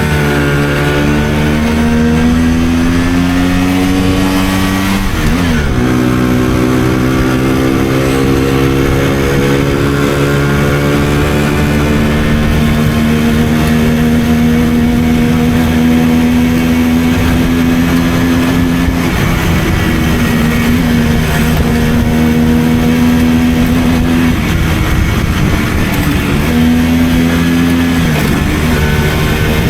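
Simson 50 cc two-stroke moped engine under way, its pitch climbing as it accelerates. About five seconds in there is a quick drop and recovery, as at a gear change. It then runs long at a steady, slowly rising speed, with a few brief drops near the end.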